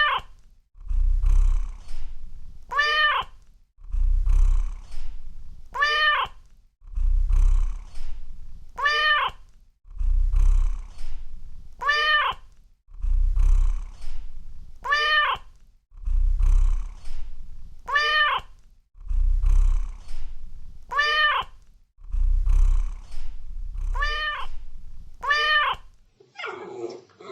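Domestic cat purring, with a short meow after each purr, repeated about every three seconds. Near the end this gives way to a different sound.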